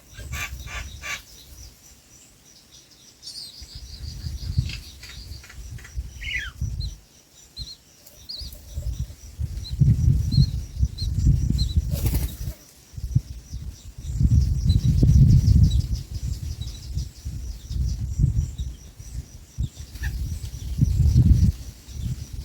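A bird's wings flapping in repeated loud fluttering bursts, with short high chirps in the first half.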